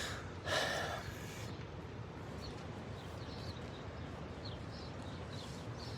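Wind buffeting the microphone in a steady low rumble, with one short louder whoosh about half a second in and faint bird chirps now and then.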